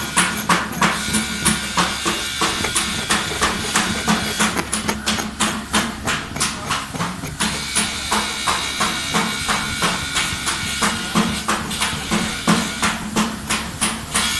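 Rapid, regular hammer blows, about three a second, with a brief pause in the strikes around seven seconds in.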